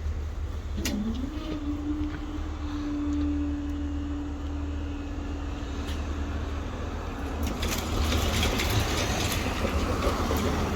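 Road vehicle noise: a steady low engine rumble, with a held drone that slides up in pitch about a second in and fades after about six seconds, then a louder rushing pass from about seven and a half seconds.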